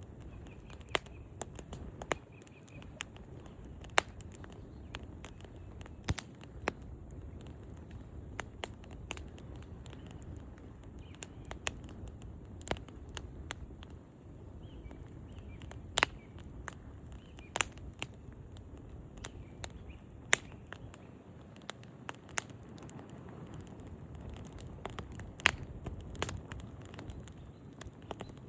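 Wood fire crackling: irregular sharp pops and snaps, a few much louder than the rest, over the low steady rush of the flames.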